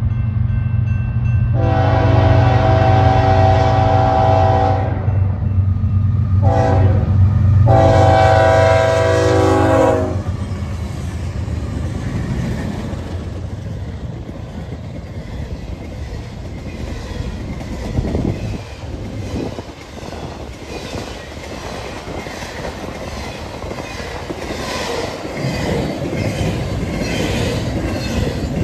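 BNSF diesel freight locomotives working hard under throttle, sounding the air horn three times: long, short, long. The engines then pass, and the freight cars roll by with a steady wheel rumble and the clickety-clack of wheels over rail joints.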